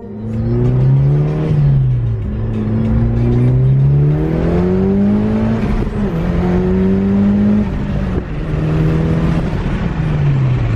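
Car engine accelerating, its note climbing and then dropping at gear changes about two, six and eight seconds in, holding steady between shifts and easing off near the end.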